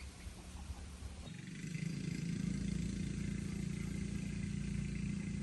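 Tractor engine running steadily. A little over a second in it speeds up and grows louder, then holds steady.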